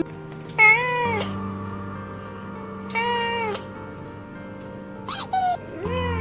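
A cat meowing four times, separate calls a second or two apart, each bending up and down in pitch, over background music.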